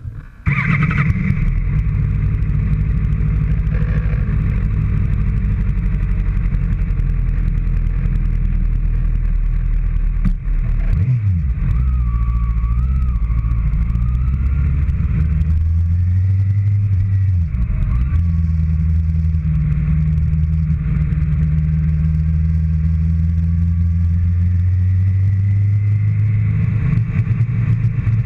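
A motor vehicle engine running steadily at low revs. It cuts in suddenly at the start, and its pitch shifts and drops about eleven seconds in, then again around eighteen seconds.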